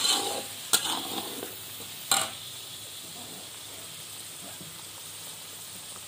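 Blended dried-chili paste sizzling as it fries in hot oil in a wok, with a metal spoon stirring it. The spoon knocks sharply against the wok three times in the first couple of seconds, then the frying goes on as a steady sizzle.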